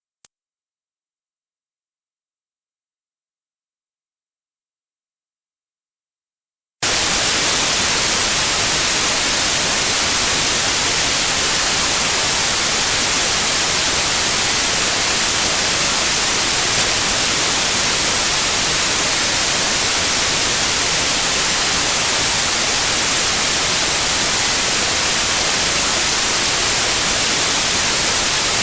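Tinnitus-therapy sound: a steady, very high pure tone at 9645 Hz, heard alone at first. About seven seconds in, a hiss of white noise switches on suddenly and runs on beneath the unchanging tone.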